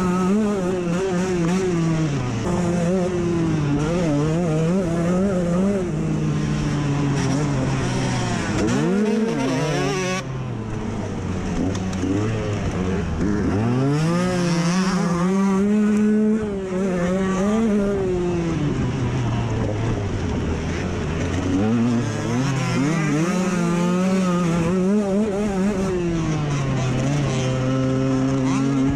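Dirt bike engine under hard riding, its pitch climbing and falling again and again as the rider accelerates, shifts and rolls off for corners. Two short dips in loudness come about a third and about halfway through.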